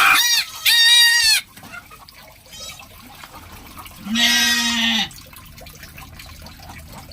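Goats bleating: two short, high bleats in quick succession at the start, then one lower, longer bleat about four seconds in.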